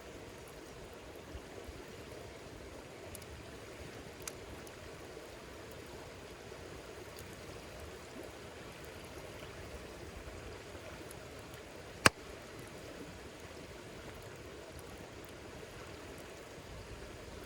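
Campfire burning with a steady low rush, a faint crackle about four seconds in and one sharp, loud pop about twelve seconds in.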